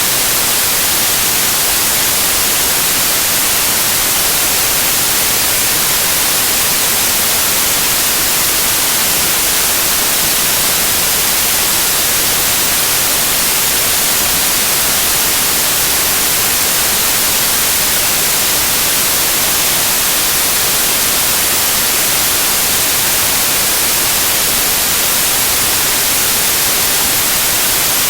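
Loud, steady white noise: an even hiss with no changes, brightest in the treble.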